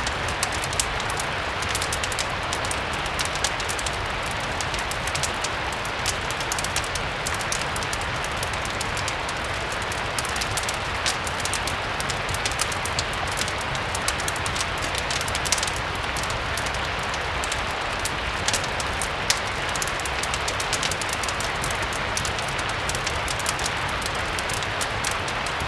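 Steady, even rain blended with a crackling wood fire: many small sharp crackles and ticks run through it, a few louder pops stand out, and a low rumble sits underneath.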